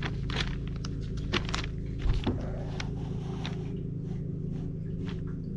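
A lawn mower engine running steadily in the background, with scattered light clicks and knocks of parts being handled.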